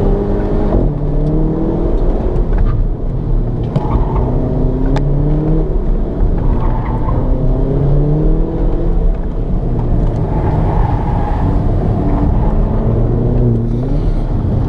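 2015 Volkswagen GTI's 2.0-litre turbocharged four-cylinder engine, heard from inside the cabin, pulling hard through an autocross course. Its pitch climbs and falls back several times as the car accelerates between cones and slows for the turns, over steady road and tyre noise.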